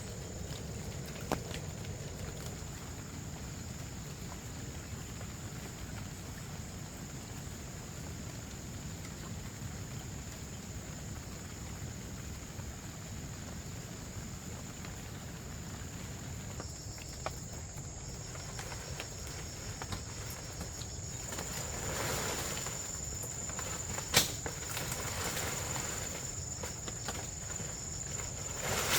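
Insects droning steadily at a high pitch outdoors, the drone growing stronger past the middle, with a few sharp knocks. The loudest knock comes about two thirds of the way through.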